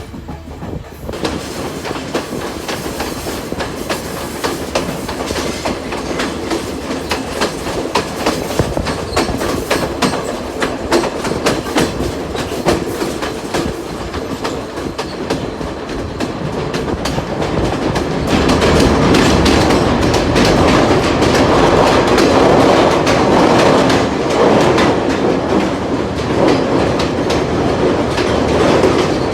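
Passenger train running on the rails, its wheels clicking and clattering over the rail joints in a dense, uneven rhythm; the running noise grows louder about two-thirds of the way in.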